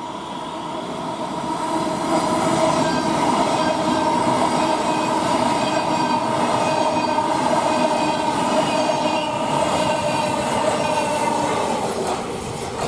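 Colas Rail freight train double-headed by Class 70 diesel locomotives with a Class 66 passing through the station, growing louder over the first two seconds and then running steadily, with a steady whining tone over the rumble of the train.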